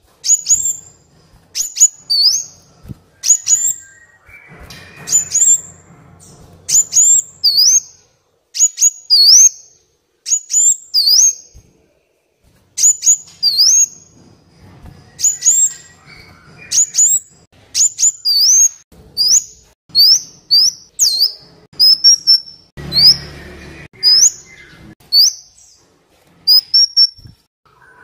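Kolibri wulung sunbird singing: sharp, high, hooked chirps repeated one to two times a second in runs with short pauses.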